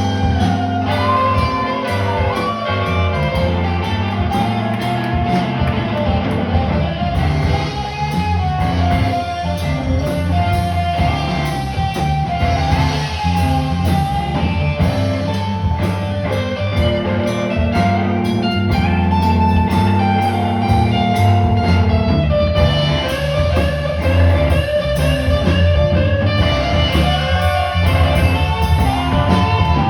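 Live music led by guitar: a melody line gliding up and down over a steady low accompaniment.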